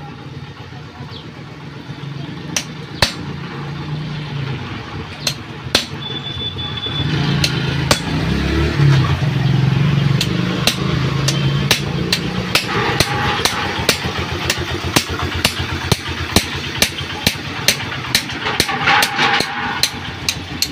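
Hammer striking metal again and again to drive a motorcycle shock absorber's rod out through a bush: sharp blows, a few at first and then about two a second. Under them runs a steady engine hum that gets louder about seven seconds in.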